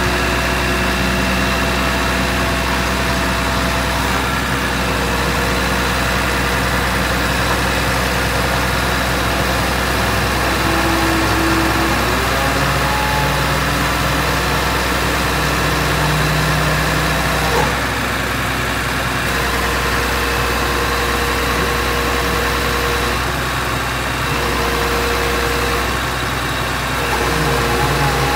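Howo truck's diesel engine running steadily, with its tones stepping up and down in pitch a few times.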